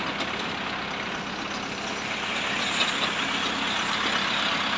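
Steady motor-vehicle noise, a constant hiss and rumble that grows slightly louder about halfway through.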